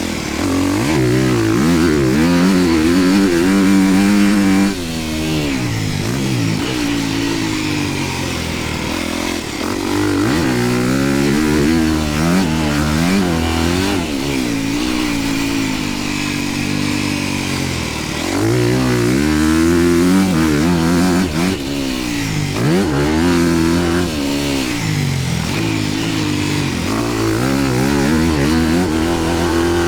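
Dirt bike engine revving hard and backing off again and again while riding a motocross track, its pitch climbing and dropping every second or two.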